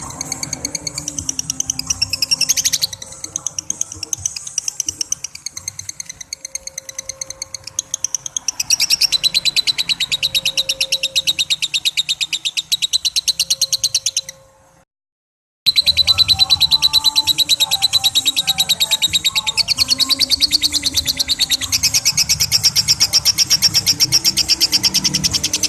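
Lovebird ngekek: a long, rapid chattering trill of sharp high notes, several a second, broken once by about a second of silence near the middle.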